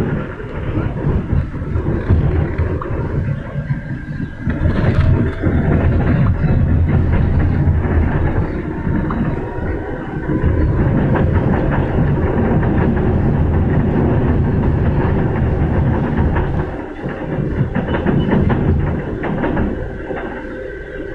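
ČKD Tatra light-rail train running at speed, heard from inside the car: a steady low rumble with wheels clacking over the rail joints and the whine of the traction motors rising in pitch as the train speeds up.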